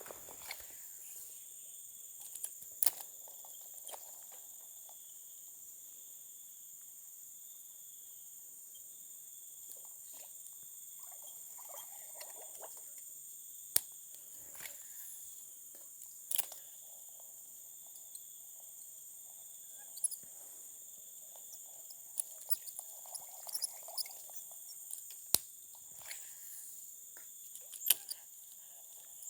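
Steady high-pitched chirring of crickets or other insects, with a dozen or so sharp clicks and taps scattered through it.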